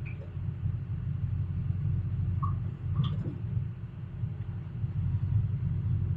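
Excavator's diesel engine running steadily with a low rumble, with a few brief faint higher-pitched chirps about two and a half to three seconds in.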